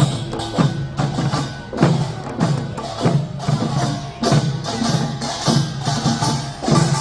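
Korean nongak farmers' band percussion: drums and small gongs beaten in a steady rhythm, with a strong stroke about every 0.6 seconds.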